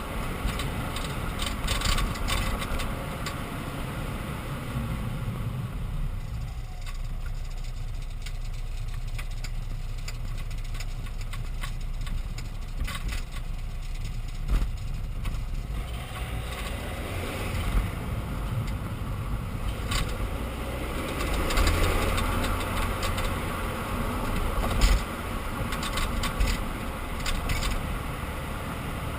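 BMW E46 320d Touring on the move: a steady low rumble of road and engine noise with scattered short clicks and knocks, louder and rougher for a few seconds after the middle.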